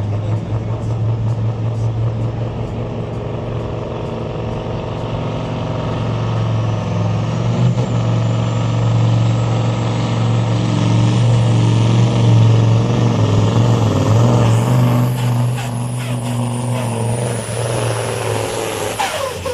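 Supersport pulling truck's diesel engine running hard under load while pulling the weight sled, with a high whine that climbs steadily in pitch through the middle of the pull and then holds.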